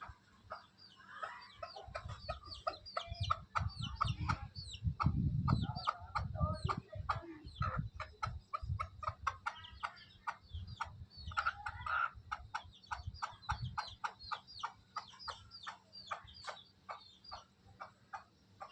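Baby chicks cheeping rapidly and continuously, many high, short, falling peeps a second, mixed with lower chicken calls. Low rumbles swell and fade in the middle.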